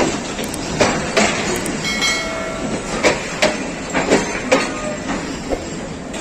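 Passenger train coaches rolling slowly along the platform, their wheels knocking sharply and irregularly over the rail joints, with a brief wheel squeal about two seconds in.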